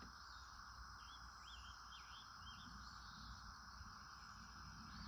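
Faint bird calls: a short run of about five quick chirps, over a steady insect drone.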